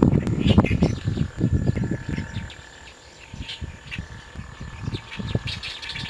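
Birds chirping in short, high notes, a few at a time, over a low rumbling that dies away about two seconds in.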